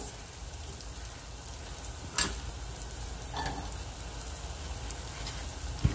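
Steady, gentle sizzle of bacon, onions and garlic frying on low heat in a pan. A sharp click comes about two seconds in, and a soft clatter of chopped onion dropped into a skillet follows about three and a half seconds in.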